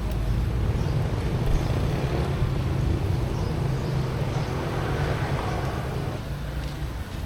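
Road traffic: a steady low engine rumble, with a vehicle passing that swells to its loudest about five seconds in and fades by about six seconds.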